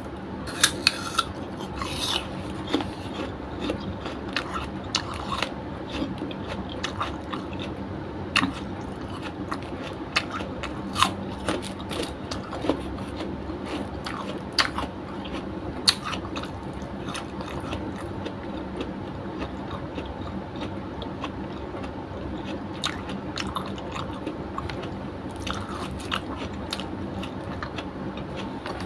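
A person chewing and biting food close to the microphone, with irregular sharp crunches, more of them in the first half.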